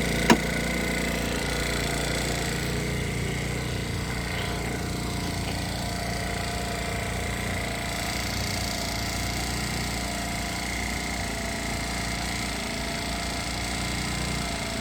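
Motorcycle engine idling steadily, with one short sharp click just after the start.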